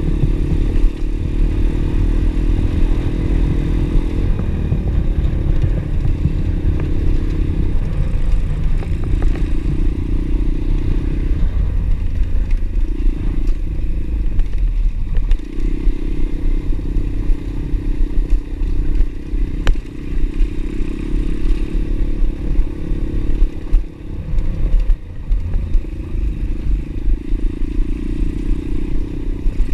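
Single-cylinder pit bike engine running under way, its note rising and falling with the throttle and dropping off a few times, over a heavy low rumble.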